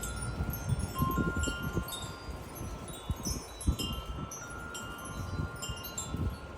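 Wind chimes ringing irregularly in gusty wind, with many short high notes at different pitches and a few longer ringing tones. Uneven low rumbles of wind buffet the microphone underneath.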